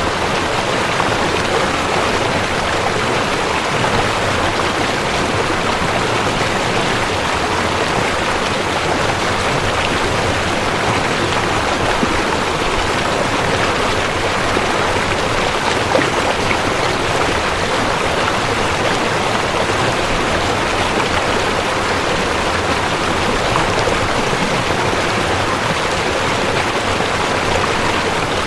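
Waterfall: water falling and rushing in a steady, loud roar with no breaks.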